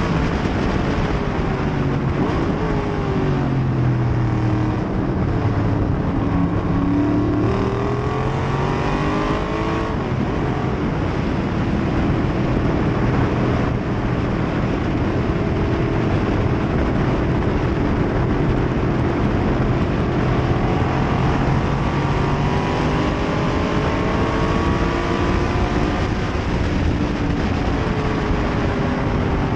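1968 Corvette race car's V8 engine under racing load, heard from on board: the revs fall a few seconds in, climb again, hold fairly steady, then climb and drop sharply near the end. A steady rush of noise runs underneath.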